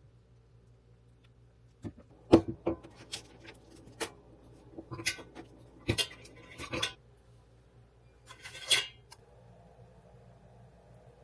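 Dishes and eating utensils knocking and clinking on a table in a quick, irregular series of sharp clicks, then a short rattling scrape.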